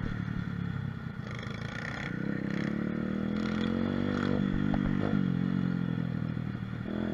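Mini moto (pit bike) engine running and revving, its note climbing about halfway through and then dropping back.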